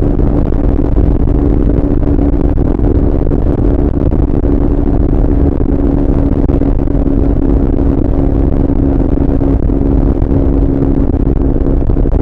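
Triumph Speed 400's single-cylinder engine running at a steady, unchanging engine note while riding, under a heavy low rumble.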